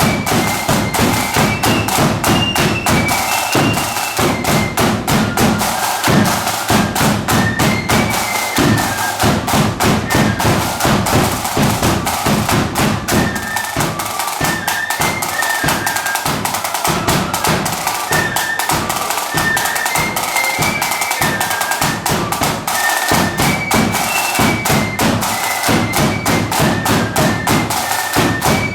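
Marching flute band playing: high flutes carry a tune over rapid snare drumming and a bass drum.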